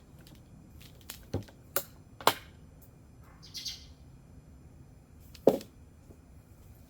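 A handful of sharp clicks and knocks, the loudest about five and a half seconds in, with a short hiss a little after the middle.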